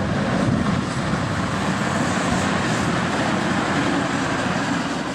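Diesel locomotive engine working hard: a loud, steady, heavy engine sound with a low rumble.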